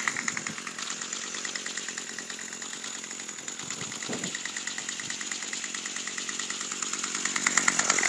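Craftsman 25cc two-stroke weed whacker engine running just after a cold start, with an even pulsing beat. It drops back to a lower, steadier running speed and then revs up again near the end.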